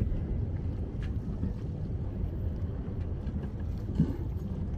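Steady low rumble of wind on the microphone and water around a moored yacht at sea, with a single short low thump about four seconds in.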